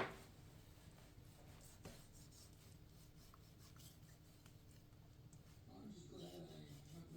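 Near-silent room tone with faint rubbing and handling noises, opening with one sharp knock and ending with a faint, muffled voice.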